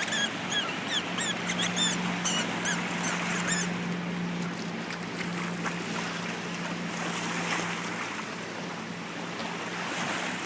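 A motorboat engine running steadily on the river, over a haze of water and wind noise. A bird chirps rapidly again and again during the first few seconds.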